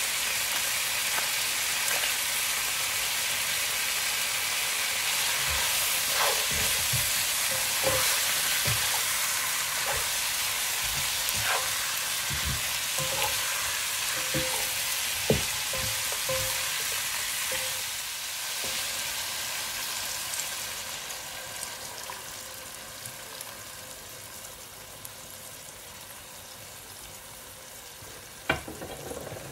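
Food sizzling in hot oil in a cooking pot while it is stirred, with scattered knocks and scrapes of the stirring utensil against the pot. The sizzle grows quieter in the second half.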